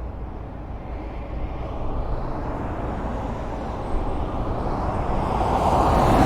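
Highway traffic: a steady rumble of passing cars, with one vehicle approaching and growing louder over the last second or so.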